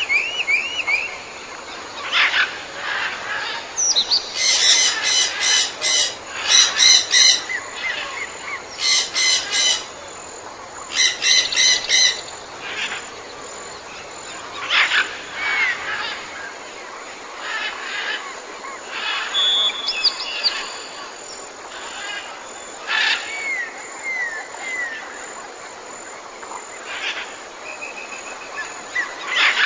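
Several birds calling, with short chirps and whistled notes. Between about four and twelve seconds in come four loud runs of rapid, buzzy pulsed calls.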